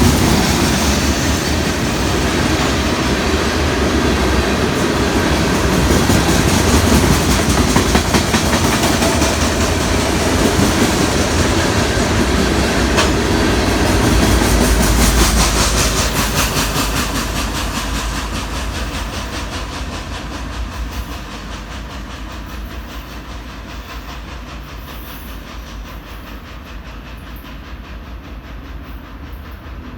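Freight train rolling past, its wheels clattering over the rails, loud for the first half and then fading steadily as the train moves away.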